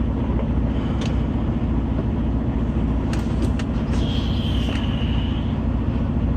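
Tractor-trailer's diesel engine running steadily, heard from inside the cab, with a few light clicks and a brief high squeal about four seconds in.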